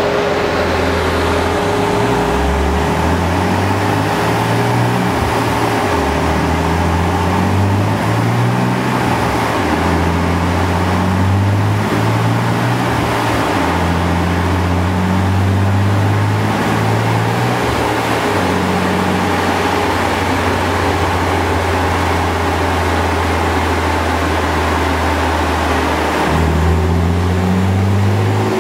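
Turbocharged BMW E46 M3's S54 straight-six running on a chassis dyno, its engine speed holding and then stepping up or down every second or two over a steady rush of air. The engine speed starts to rise near the end.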